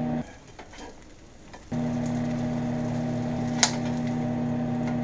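Shredded cheese sizzling and frying in a hot Copper Chef nonstick pan over a steady hum. The sound drops away briefly just after the start and comes back nearly two seconds in, and a spatula clicks once against the pan a little after three and a half seconds.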